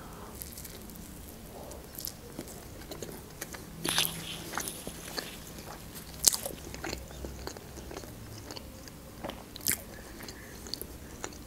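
A woman biting into and chewing a lavash roll: wet mouth sounds with scattered short clicks and crunches, the sharpest about 4, 6 and 10 seconds in.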